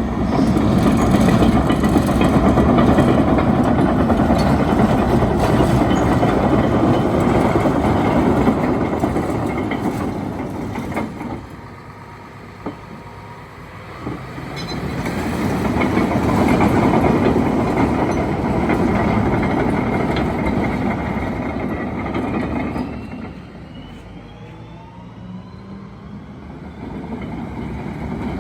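Komatsu D85PX-18 crawler bulldozer running and travelling, its engine and steel tracks loud. The noise swells and fades twice, dropping low for a few seconds just before the middle and again near the end.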